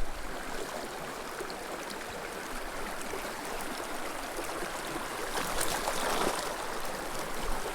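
Small mountain creek flowing and babbling steadily over rocks.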